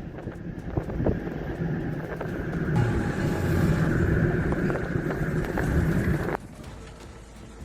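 Steady vehicle rumble with wind noise on the microphone and scattered clicks; the sound changes abruptly a few seconds in and drops to a much quieter hum near the end.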